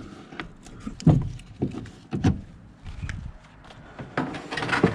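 A few knocks and thumps of junk being moved by hand, with a short stretch of scraping and rustling near the end.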